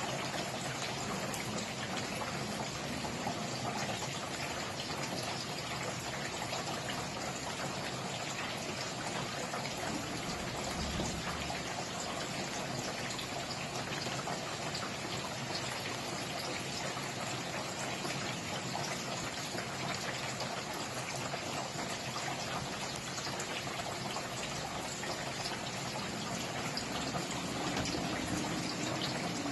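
Steady rain falling, a dense, even hiss of many small drop impacts that keeps an unchanging level throughout.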